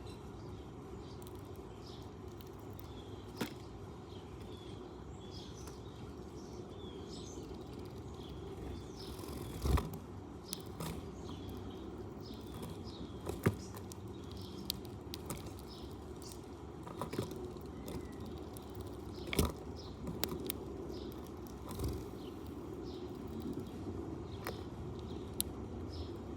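Sparrows chirping in short, scattered calls over steady outdoor background noise, with a few sharp knocks now and then.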